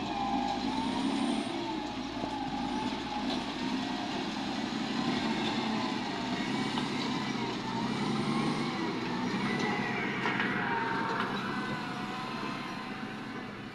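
Heavy diesel truck or earthmoving machine engine running steadily, with a whine that wavers up and down in pitch.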